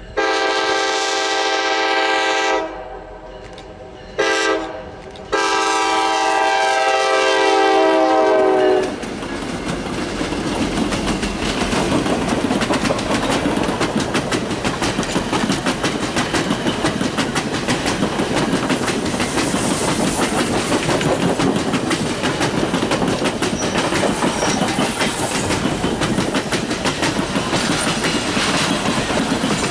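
Horn of the lead EMD F-unit locomotive sounding a long blast, a very short one and another long blast that ends about nine seconds in. Then the locomotives pass close by and a long passenger train rolls past, its wheels clicking over the rails in a steady loud rumble.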